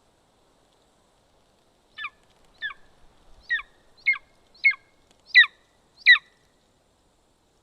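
Golden eagle calling at the nest: a series of seven short, sharp calls in about four seconds, each sweeping down in pitch, growing louder toward the end.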